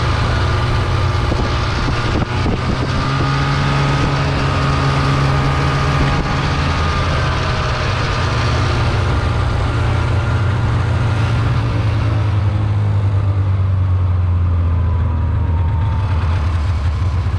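Snowmobile engine running steadily as the sled is ridden. About twelve seconds in the higher hiss fades away, and a high whine drops in pitch near the end as the machine slows.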